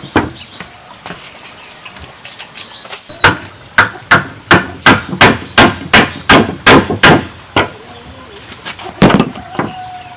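Hammer striking bamboo in a quick run of about a dozen blows, about three a second, with a few single blows before and after.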